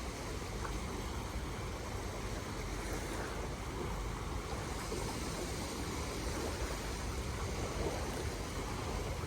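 Steady rushing noise with a low rumble and no distinct events.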